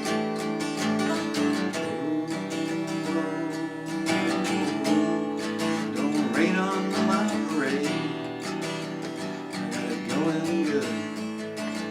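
Acoustic guitar strummed in a steady rhythm, playing the lead-in to a song, with a short sliding melodic phrase over it about halfway through and again near the end.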